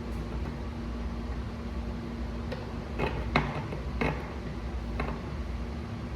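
A handful of short clicks and knocks, five in about two and a half seconds with the sharpest in the middle, as objects are handled on a work surface, over a steady low hum.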